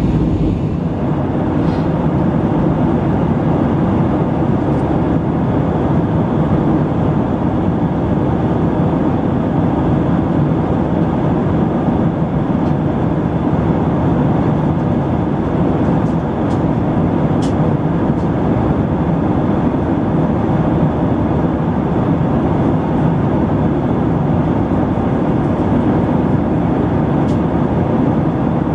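Steady rumble of an Airbus A319's engines and rushing air, heard inside the passenger cabin, with a few faint clicks.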